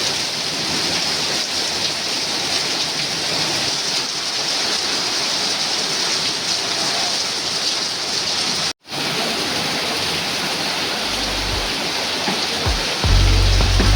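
Steady heavy rain, a dense even hiss, broken by a split-second gap about nine seconds in. Near the end a loud low rumble joins it.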